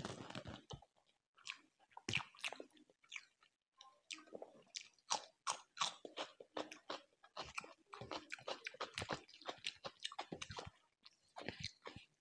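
Close-miked chewing of chicken, heard as an irregular run of short crunches and wet mouth smacks, starting with a bite into a piece of chicken. There are a couple of brief pauses in the chewing.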